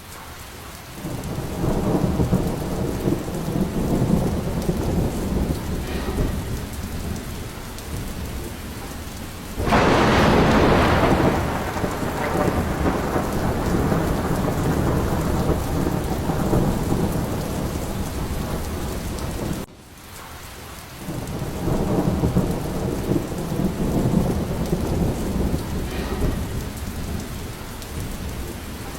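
Thunderstorm: steady heavy rain with rolling thunder. A loud burst of thunder breaks in about ten seconds in and slowly rumbles away, and a second rumble builds up again after a brief lull just before twenty seconds.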